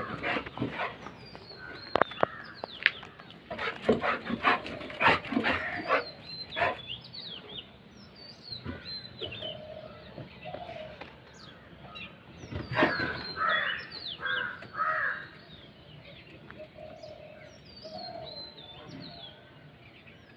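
Golden retriever barking in short bursts at crows, mostly in the first seven seconds and again about thirteen seconds in. Crows caw in between, with small bird chirps throughout.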